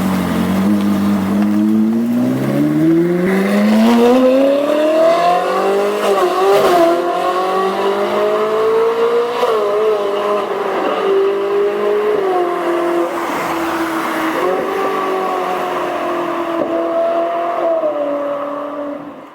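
Ferrari 458 Italia's flat-plane V8 through a Fi valvetronic catback exhaust with catless downpipes, accelerating hard. The engine note climbs steadily in pitch over the first six seconds, then holds at high revs with a few small dips, and fades out at the end.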